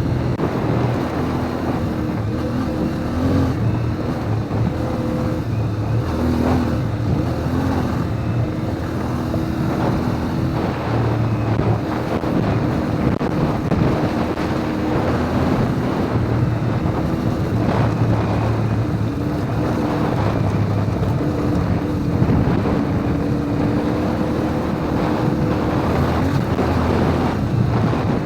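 CFMoto 450 MT adventure motorcycle's parallel-twin engine running hard on a gravel road, its note stepping up and down with throttle and gear changes. Heavy wind noise on the microphone and tyre and road noise run under it.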